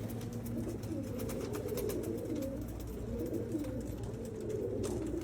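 Several domestic Qatif pigeons cooing at once, their low wavering coos overlapping without a break, with a few faint clicks among them.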